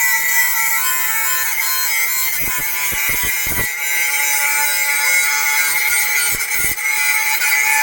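Electric power tool running at a steady speed, cutting wood, with a constant whine over a hiss. A few dull low thumps come around the middle and again near the end.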